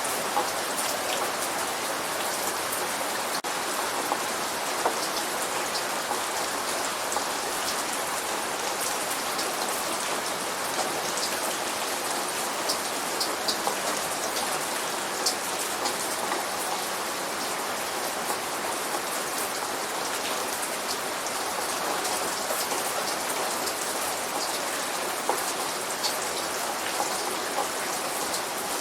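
Steady light rain falling, with scattered individual drops ticking on a surface.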